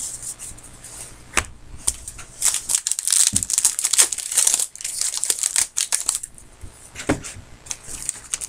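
Trading-card pack wrappers being torn open and crinkled by hand: irregular crackling rustles with a few sharper snaps.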